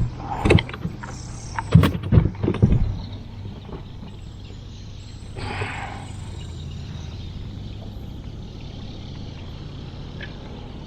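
Several sharp knocks and thumps in the first three seconds over a steady low hum, then a short rush of noise about five and a half seconds in.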